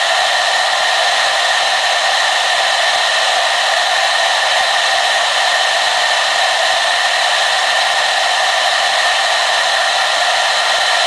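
Hair dryer running continuously, a steady airy rush of blown air with a constant motor whine.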